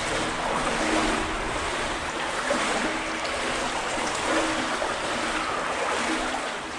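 Shallow river water sloshing and flowing around wading legs, echoing in an enclosed brick culvert tunnel.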